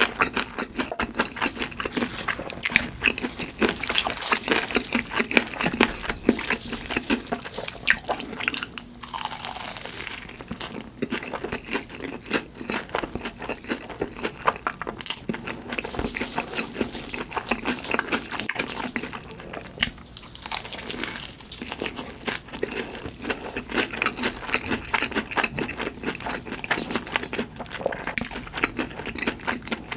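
Close-miked eating of crispy fried food: crunchy bites and chewing, dense crackles with two short lulls.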